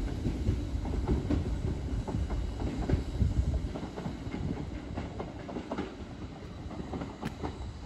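Merseyrail Class 507 third-rail electric train pulling away, a low rumble with the clicks of its wheels over rail joints, slowly fading as it leaves.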